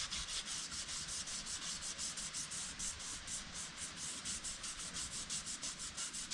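Sandpaper being rubbed by hand over vehicle bodywork: a steady rasping in quick, even back-and-forth strokes, about four or five a second.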